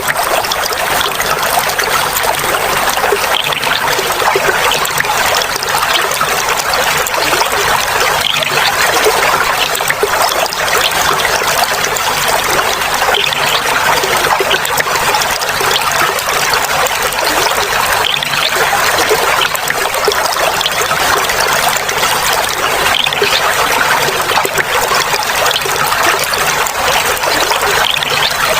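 Clear water flowing and trickling steadily, a continuous babbling splash.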